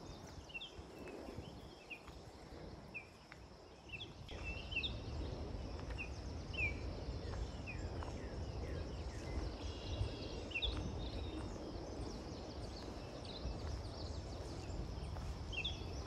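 Small birds chirping in short, high notes scattered all through, over a low rumble that grows louder about four seconds in.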